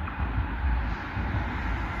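Low, uneven rumble of a train drawing near through the station, mixed with wind buffeting the microphone.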